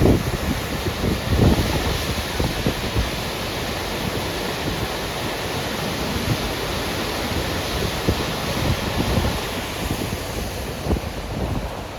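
Steady rushing roar of a waterfall, with wind gusting against the microphone.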